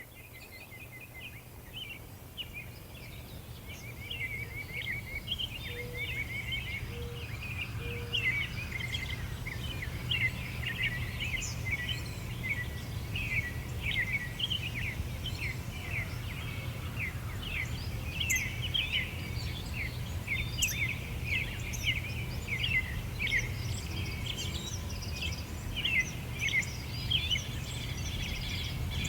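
Small birds chirping and twittering busily in quick short notes, over a steady low rumble. The sound fades in over the first several seconds.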